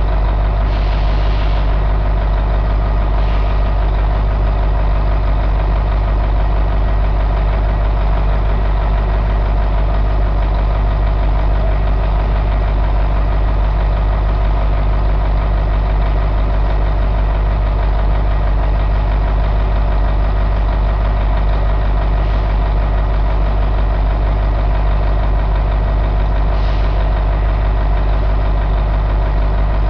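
Caterpillar 3208 V8 diesel engine idling steadily, with a few short, faint hisses over it.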